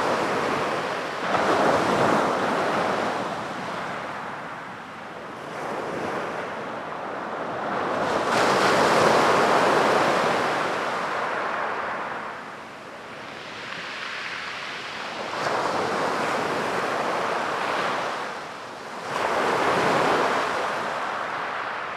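Sea waves breaking and washing up a beach, the surf swelling and fading in surges several seconds apart, with three louder breakers.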